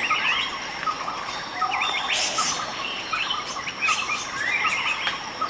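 Rainforest ambience: several birds chirping and calling in quick, overlapping short notes over a steady high insect buzz.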